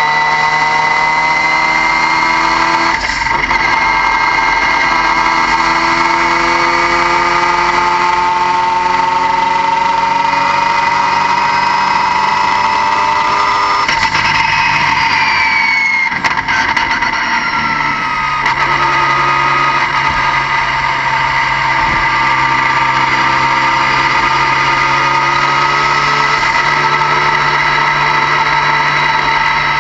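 Vehicle engine running with a loud, steady high-pitched whine over it, the kind of whine a failing turbocharger makes. The engine note drifts slowly, and about halfway through a short falling whine is heard.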